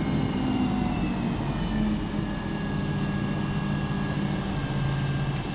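Crane engine running steadily under a low, even drone, its pitch shifting slightly about two seconds in and again near the end.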